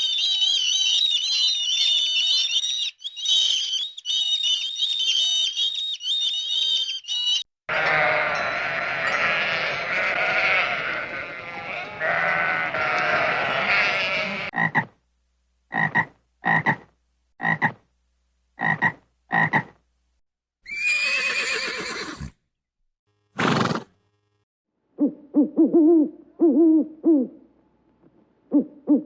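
A series of different animal calls cut one after another: a high trilling chorus, then a dense croaking chorus, then about six short, evenly spaced calls and two brief bursts. Near the end, low hooting calls repeat.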